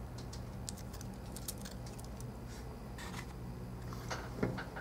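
Faint, scattered light clicks and taps of small iPhone parts and tools being handled while the vibrate motor is seated back in the phone's frame, over a steady low hum.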